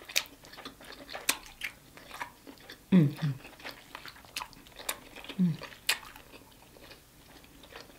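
Close-up eating sounds of a person chewing saucy deshelled seafood boil: wet chewing and lip smacks heard as many short sharp clicks. Two short low hums come at about three seconds and five and a half seconds in.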